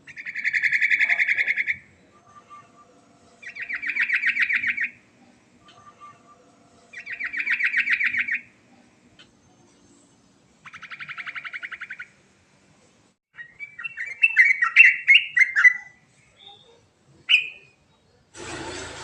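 Yellow-vented bulbul (trucukan) singing: four fast, buzzy trills of about a second and a half each, evenly spaced, then a more varied chattering phrase and a single short note. A sudden burst of noise comes in just before the end.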